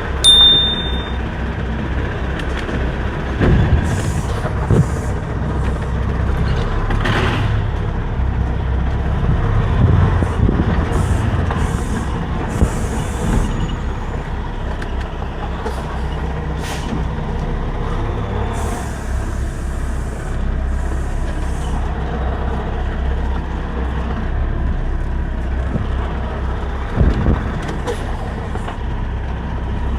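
Semi-truck diesel engine running with a steady low rumble, with several short high hisses scattered through it.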